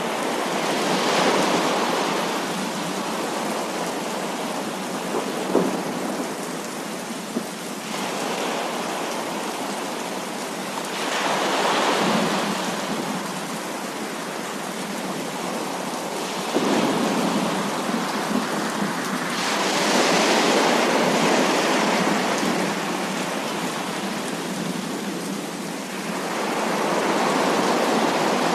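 Heavy rain falling steadily, with rolls of thunder that swell and fade every several seconds, and a few sharp taps.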